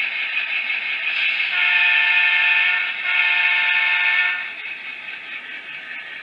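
Model locomotive's Tsunami 2 sound decoder playing a train horn through the locomotive's small speaker, two long blasts, over steady running-engine sound. The running sound drops in level after the second blast.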